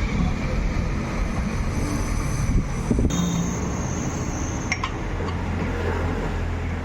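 Steady low vehicle-like rumble with a few short, sharp clinks.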